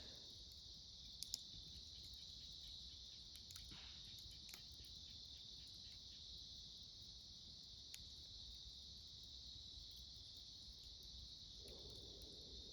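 Autumn crickets chirping in a steady, high, continuous trill, with a few sharp crackles from a wood campfire: two close together about a second in and one near eight seconds.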